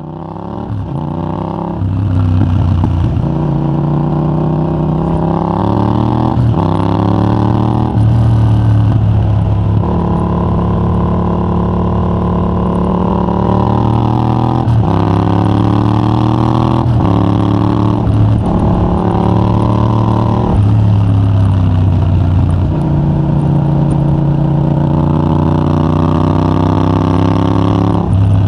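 Yamaha MT-07's 689 cc parallel-twin engine through a de-catted Mivv GP Pro titanium exhaust with a 35 mm dB killer, accelerating hard: the pitch climbs again and again and drops suddenly at each gear change or roll-off of the throttle.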